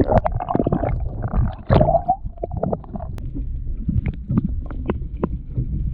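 Low rumbling water and wind noise around a fishing kayak, with scattered small knocks and taps. A brief wavering mid-pitched tone sounds in the first two seconds.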